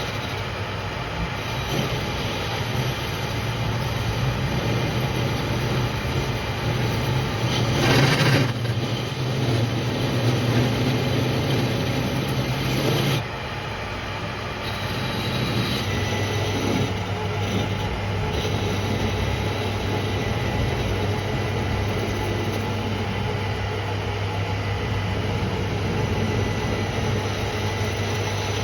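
A metal lathe running with a steady motor hum under continuous machining noise. There is a brief louder burst about eight seconds in, and the hum settles slightly lower around thirteen seconds.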